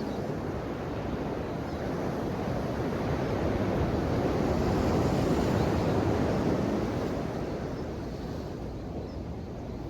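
Ocean waves breaking and washing on the shore, a steady rush of surf that swells up about halfway through and then eases back.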